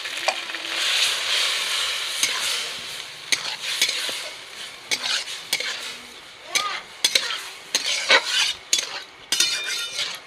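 Snails in their shells frying in hot mustard oil in an aluminium kadai, a steady sizzle. From about three seconds in a metal spatula stirs them in quick strokes, scraping the pan and rattling the shells against it.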